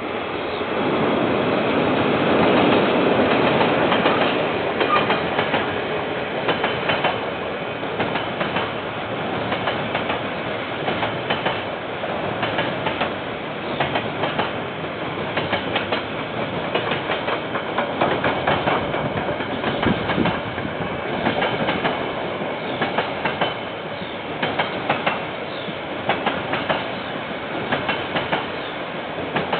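A KiwiRail train rolling past, its wheels clattering steadily over the rail joints in a long run of clicks, loudest a few seconds in. Picked up by a security camera's microphone, so the sound is thin, with no high end.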